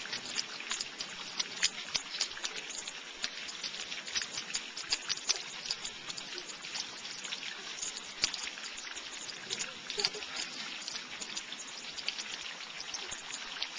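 Rain falling, with a steady hiss and many small, irregular ticks of drops pattering close by.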